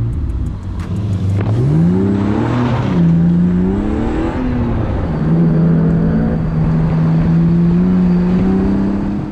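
BMW E46 330Ci's 3.0-litre straight-six accelerating hard off the start line. The revs climb, drop at an upshift about three seconds in, then the engine pulls under steady throttle with the pitch slowly rising.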